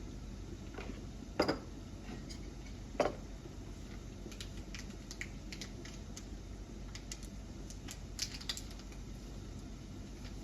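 Scattered light clicks and taps at an irregular pace, with two louder knocks about one and a half and three seconds in.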